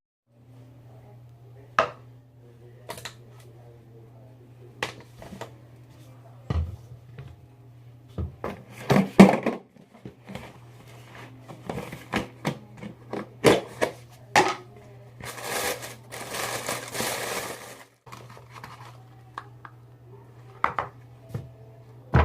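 Things being handled indoors: scattered clicks and knocks over a steady low hum, with a rustling hiss lasting about two seconds past the middle.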